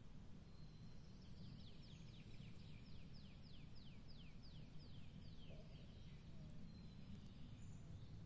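Faint forest ambience: a songbird sings a run of about a dozen high, downward-slurred notes, about three a second, from about a second in until about five seconds in, over a low steady rumble.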